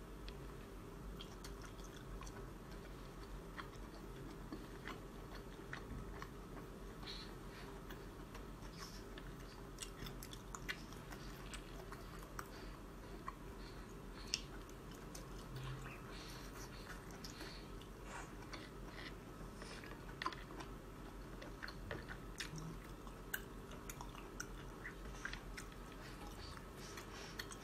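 Close-up chewing and biting of soft braised razor clam meat, with small wet mouth clicks at irregular moments over a faint steady hum.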